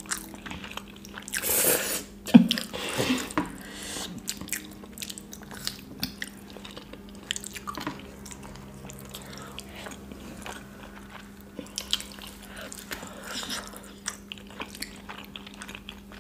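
Close-miked eating sounds: two people chewing soft food eaten by hand, with many small wet mouth clicks and smacks. There is a louder noisy burst about two seconds in, over a faint steady hum.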